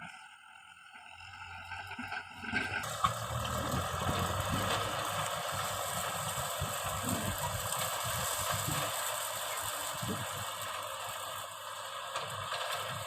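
Kubota M6040 tractor's diesel engine running with rattling and clatter. It becomes suddenly louder and noisier about three seconds in.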